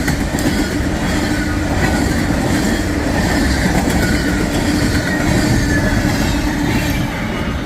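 Empty coal cars of a westbound freight train rolling past: a steady rumble and clatter of wheels on rail, with a faint high wheel squeal at times.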